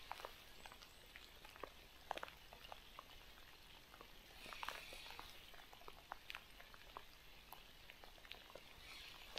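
Faint raindrops ticking and tapping at irregular intervals, with a soft hiss swelling briefly about halfway through.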